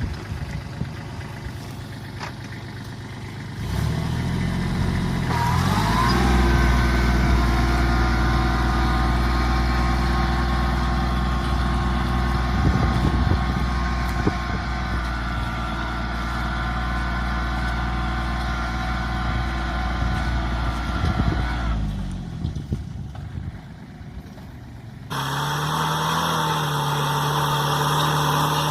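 Small mini-tractor engine running, picking up speed about five seconds in and then holding steady, before dying down near the end. After an abrupt change, a different small engine runs steadily at a higher pitch.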